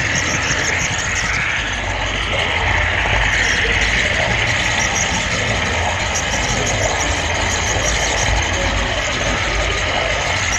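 Steady rumble and rattle of a model-railroad camera car rolling along the track, picked up by the GoPro riding on the car, with faint rapid clicking over it.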